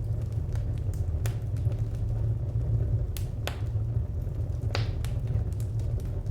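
Wood fire crackling: a steady low rumble with irregular sharp pops and snaps scattered through it, the strongest a little past three seconds in and near five seconds.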